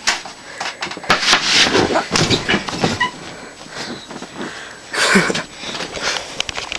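A skateboard dropping off a cooler onto the floor: a run of knocks and clatter with bursts of noise, and a short cry about five seconds in.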